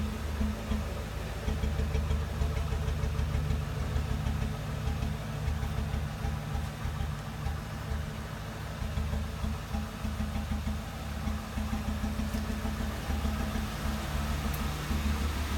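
2007 Ford Crown Victoria's 4.6-litre V8 idling roughly with an uneven, stumbling beat: the sign of a misfire on cylinder 8.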